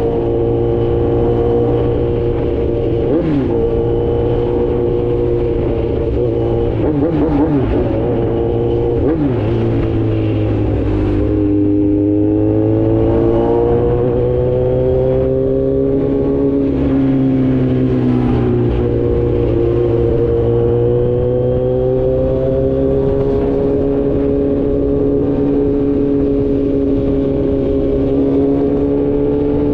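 Kawasaki Z900's inline-four engine through an Austin Racing full exhaust, cruising at a steady speed with the revs rising and falling gently under small throttle changes. The revs dip about halfway through, then climb again.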